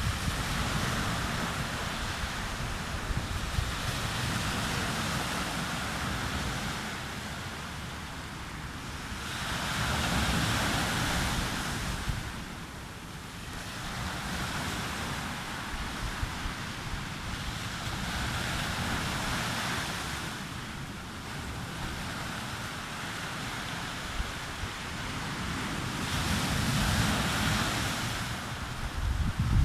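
Sea waves breaking on a beach and washing up the shore, swelling and ebbing every few seconds, with wind buffeting the microphone.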